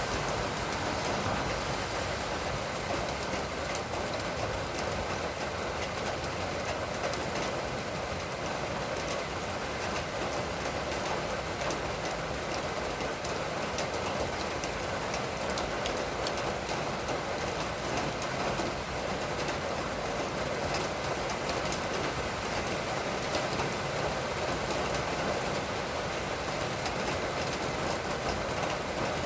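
Rain falling steadily: an even hiss with scattered faint ticks of drops landing.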